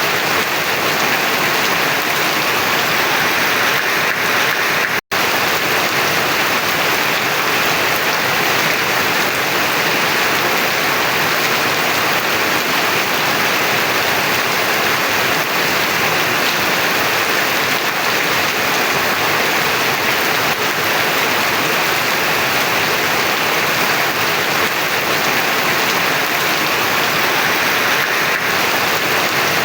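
Heavy rain falling in a steady, dense downpour with no pause, except an instant where the sound cuts out about five seconds in.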